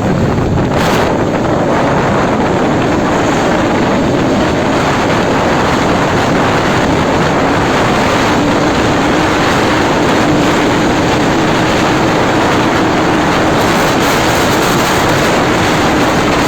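Bajaj Pulsar RS 200's single-cylinder engine running steadily on the move, mixed with a constant rush of wind on the microphone.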